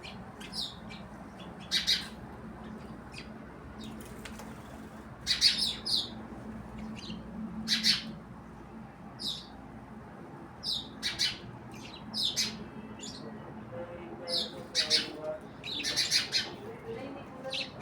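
Birds chirping: short, sharp calls every second or two, some coming in quick clusters of two or three.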